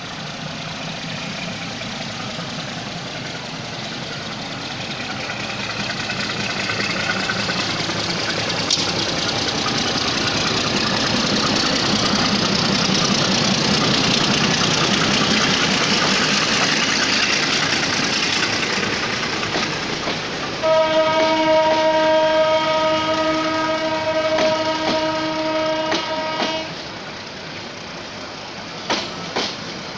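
Metre-gauge diesel-hauled passenger train pulling out, the locomotive and then its coaches running past close by with a building rumble of engine and wheels. About two-thirds of the way through, a locomotive horn sounds one long steady blast of about six seconds, louder than anything else. A few sharp wheel clicks over rail joints come near the end.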